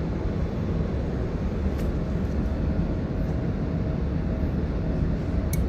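Steady low rumble of a passenger train running between stations, heard from inside the carriage, with a faint steady hum joining about two seconds in and a light click near the end.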